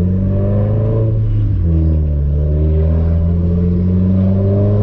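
Nissan 240's engine through an ETS Extreme catback exhaust, pulling under light acceleration at fairly low revs: the exhaust note rises steadily, drops sharply about a second and a half in as at a gear change, then rises again.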